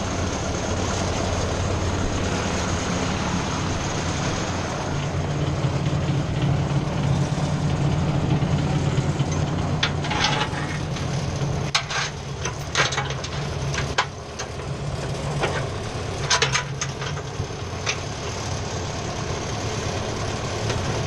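Ford 600 tractor engine running steadily at idle. Several sharp clanks or knocks sound over it between about ten and seventeen seconds in.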